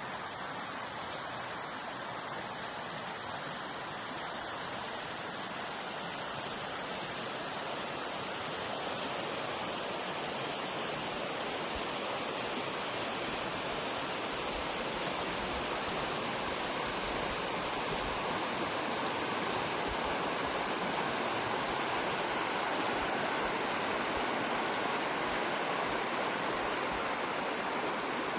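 Steady rush of running water, growing gradually louder.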